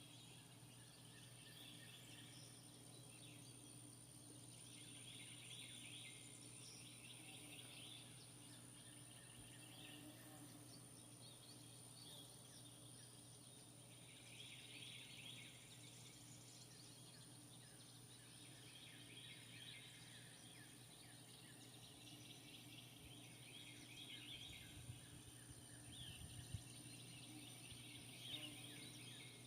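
Near silence: faint outdoor ambience with scattered, faint high chirping that comes and goes, over a steady low hum.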